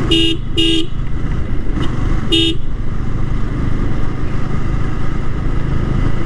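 Three short horn beeps, two quick ones close together and a third about two seconds later, over the steady running of a Yamaha R15 V3's single-cylinder engine and road noise.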